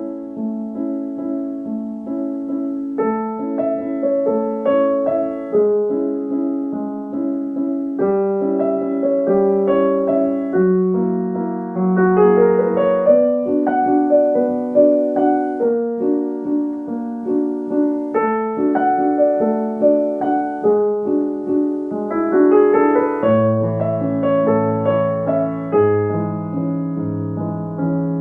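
Background piano music: a gentle melody of steady notes over an arpeggiated accompaniment, with lower bass notes entering about 23 seconds in.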